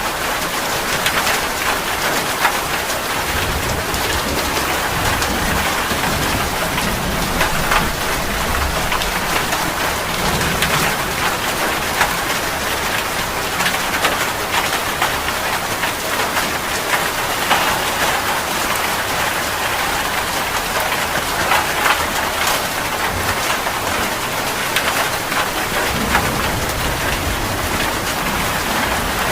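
Heavy rain falling steadily, a dense hiss of drops with individual drop ticks.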